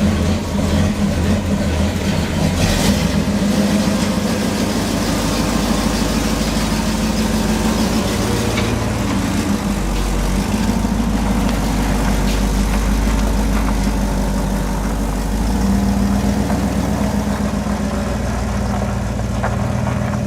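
Chevy pickup truck engine running steadily, its note shifting a couple of times as engine speed changes.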